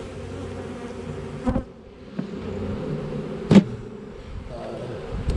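Honey bees buzzing around an open hive, a steady hum of many wings. Two sharp knocks cut through it, the louder about three and a half seconds in.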